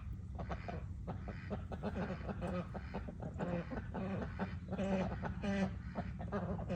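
Domestic fowl calling, with many short calls in quick runs, over a steady low hum.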